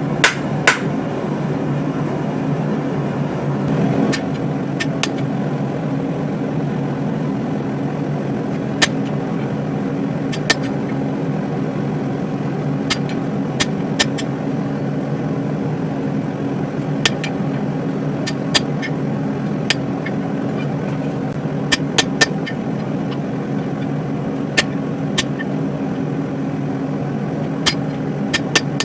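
Steady mechanical hum of a running blacksmith's forge, with scattered sharp clicks and ticks at uneven intervals.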